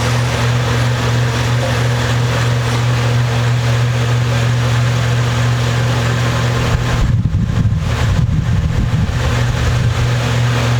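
Steady low electrical hum over an even hiss, like a running motor or fan, with some irregular low rumbling from about seven to nine seconds in.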